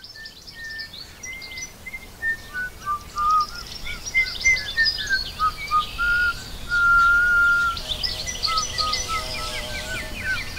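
Birds chirping and singing, many short chirps over a string of clear whistled notes, one held long for about a second around the middle.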